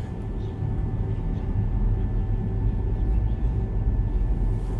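Steady low hum with faint background noise during a pause in the prayer recitation; no voice.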